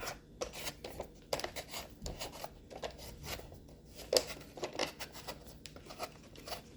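Irregular scraping, rubbing and small clicks of hands working on a Roomba robot vacuum's plastic parts while dirt and debris are cleaned out of it.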